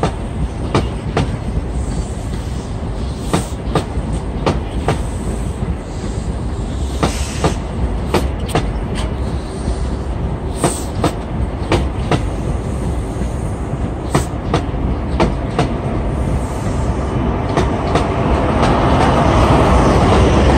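LNER passenger train rolling past close by: a steady rumble with repeated clicks as the wheels cross rail joints. The sound swells louder over the last few seconds as the rear vehicle goes by.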